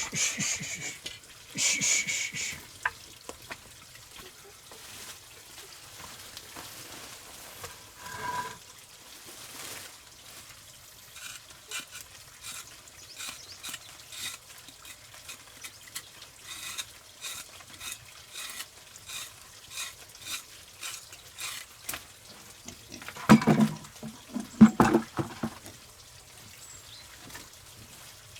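Food frying in a pan, with a faint sizzle and small scraping clicks of stirring. About two-thirds of the way through there is a short, louder voice-like sound.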